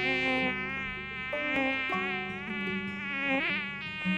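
Mosquito wing whine, a steady high buzz whose pitch wavers up and down.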